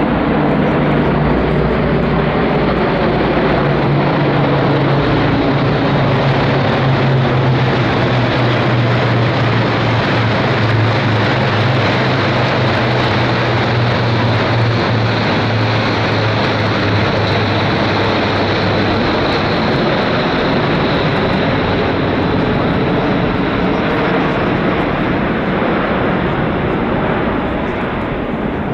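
Military aircraft flying past overhead: a loud, steady engine roar with a low drone that sinks slightly in pitch and fades out about two-thirds of the way through.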